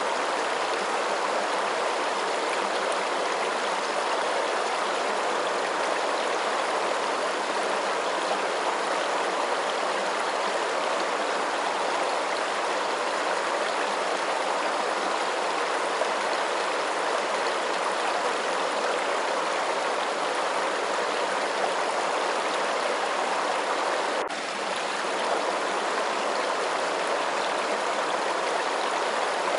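Steady, even rush of flowing water, like a stream, with a momentary dip in level about three-quarters of the way through.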